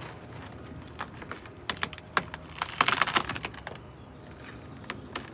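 Dry-rotted wood in a camper wall being handled and picked at, giving scattered small cracks and clicks with a quick burst of crackling about three seconds in.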